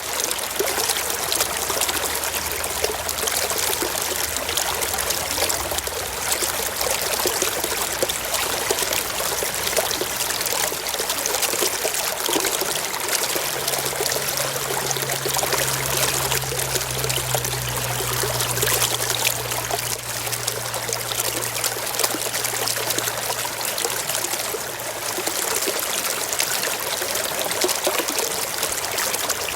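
Mountain stream flowing over rocks: a steady rush and splash of running water. A faint low hum sits underneath for about ten seconds in the middle.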